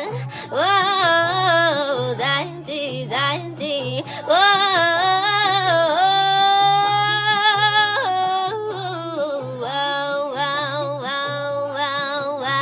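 A woman singing wordless vocal runs with a fast vibrato and long held notes, over a low, steady backing.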